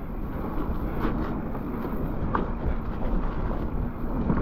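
Wind rushing over the microphone with the low rumble of mountain bike tyres rolling over a wet, muddy dirt trail, with a few faint knocks.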